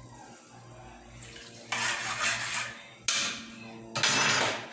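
Water running from a kitchen tap in three short bursts, with pots and pans clattering.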